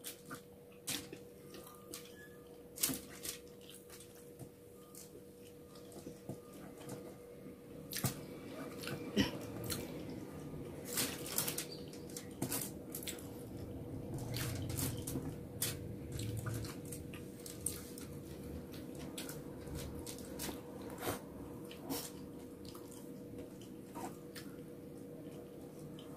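Close-miked eating sounds: chewing with many short wet mouth clicks and smacks scattered through, over a steady faint hum.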